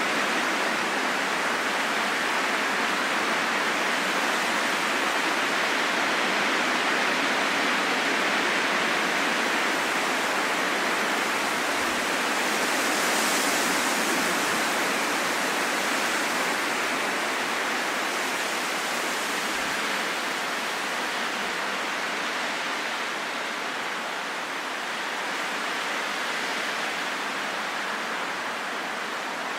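Steady wind blowing, a soft even rush with no gusts or whistling, swelling a little about halfway through and easing slightly near the end.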